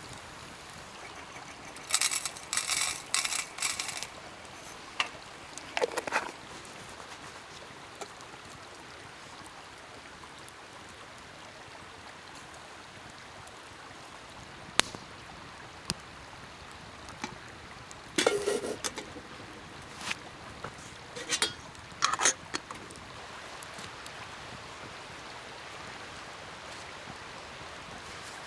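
Campfire burning: a steady hiss with scattered sharp pops. A few short bursts of rustling and handling noise come in clusters, the loudest near the start and again about two-thirds of the way through.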